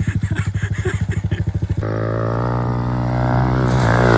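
Pit bike engine idling with an even, lumpy beat, then the throttle opens about two seconds in and the engine revs up, its pitch climbing steadily until near the end.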